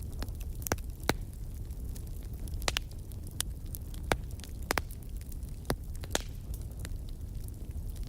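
Wood fire in a fireplace crackling, with irregular sharp snaps and pops over a low steady rumble.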